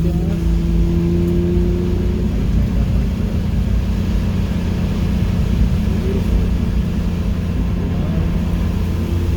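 Car engine running under steady throttle, its note rising a little in the first couple of seconds and then holding, with a rumble of road and tyre noise, heard from inside the cabin.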